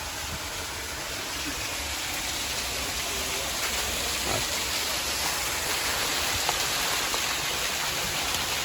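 Waterfall running, a steady rush of falling water.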